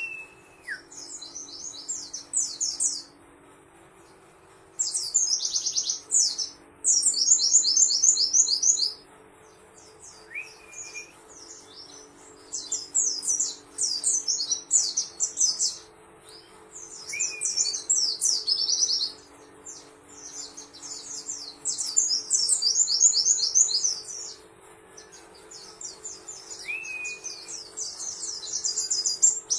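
A pleci (white-eye, Zosterops) singing in rapid, very high twittering phrases of one to three seconds each, repeated after short pauses. Short lower whistles come in between, and a faint steady hum runs underneath.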